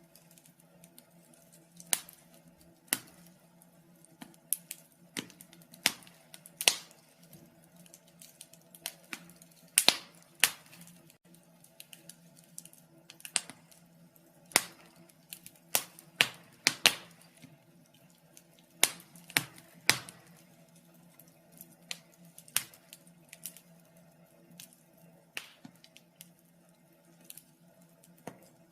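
Wood fire burning in a fireplace, crackling with irregular sharp pops, several loud ones bunched about ten and sixteen to twenty seconds in, over a faint steady hum.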